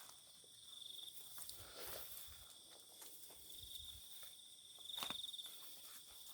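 Crickets and other night insects trilling steadily in a high, thin band that swells and fades, with soft footsteps rustling through vegetation and one sharp click about five seconds in.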